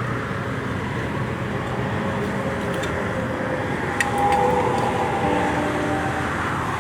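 Steady highway traffic noise, with a single sharp click about four seconds in.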